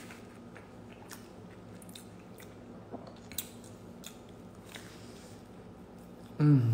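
A man biting into and chewing a grilled egg sandwich on toasted bread: a few soft crunches and mouth clicks over a steady low hum. A brief, louder vocal sound near the end.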